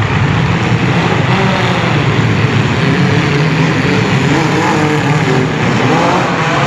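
Several compact-car engines revving hard together, their pitches rising and falling, with a rising rev near the end.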